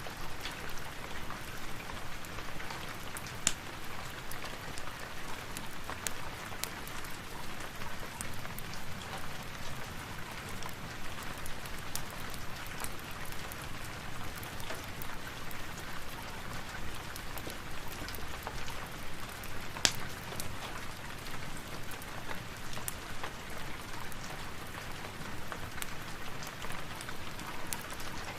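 Steady rain mixed with a crackling wood fire: an even hiss of rain with scattered sharp pops, two louder ones about three and twenty seconds in.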